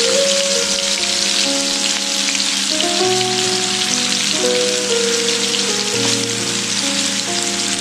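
Boneless chicken pieces shallow-frying in hot oil, a steady crackling sizzle, with background music playing under it.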